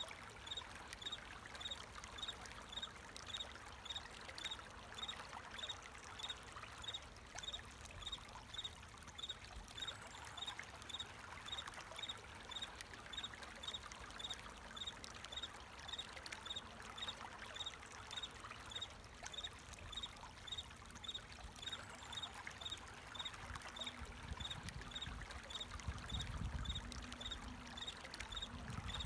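Running water trickling and pouring steadily, with crickets chirping in an even rhythm of about three chirps a second. A low rumble rises near the end.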